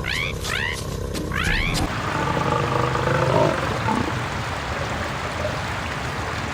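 Three quick chirping animal calls, then heavy rain and rushing water with a big cat (a cave lion) growling low.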